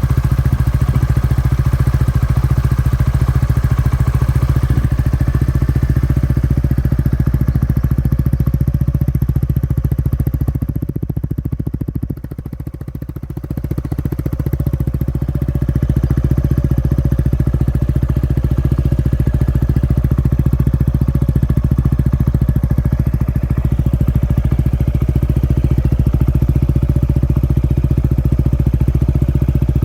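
Yamaha Majesty S XC155 scooter's single-cylinder four-stroke engine running steadily at a constant speed through an aftermarket BEAMS CORSA-EVO heat-titanium muffler. The sound dips for a couple of seconds around the middle, then returns.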